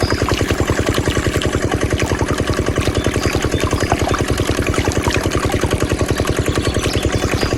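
Small diesel engine driving a water pump, running steadily with an even, rapid beat of about ten pulses a second.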